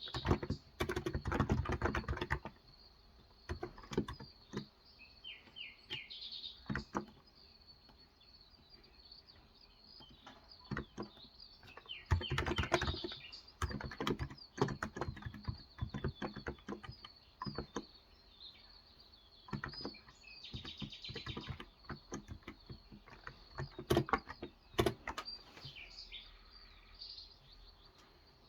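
Typing on a Cox Endeavour electrostatic capacitive (Topre-style) 35 g tenkeyless keyboard, keys clicking in bursts with pauses between, the densest flurries at the start and about twelve seconds in. Birds chirp in short phrases in the background several times.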